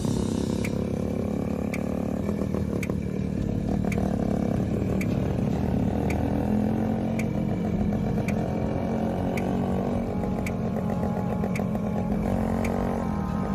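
Kawasaki motorcycle engine running steadily, with a short sharp tick about once a second.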